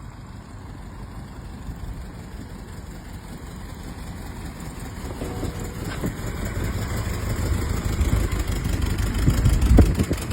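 A car engine running, growing steadily louder and loudest just before the end.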